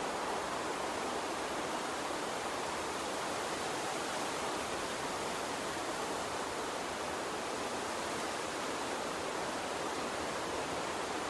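Gentle water stream running steadily: an even, unbroken rushing hiss with no separate splashes.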